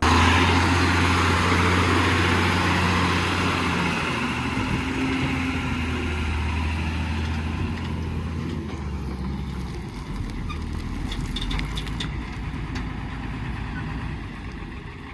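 Heavy diesel vehicle engine running close by with a steady low hum, cutting in abruptly and slowly fading away, with a few light clicks near the end.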